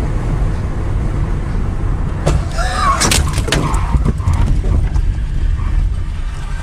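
Car on the move, heard from inside, with a steady low rumble of engine and road noise. A little over two seconds in comes a brief cluster of sharp knocks with a short curving squeal.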